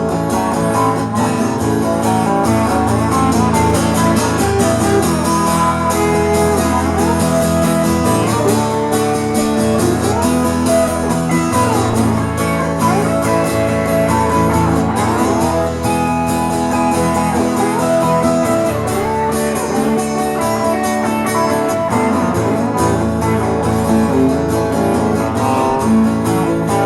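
Guitars playing an instrumental break in a country-style song, a lead line of sliding, bending notes over steady chords.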